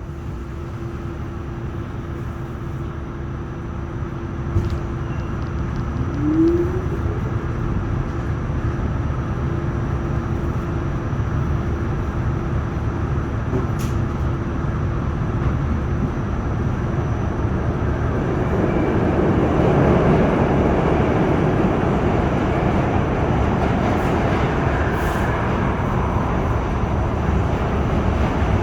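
R46 subway car running through the tunnel after leaving a station, with a brief rising whine about six seconds in. The wheel and track rumble builds up and is loudest about two-thirds of the way through.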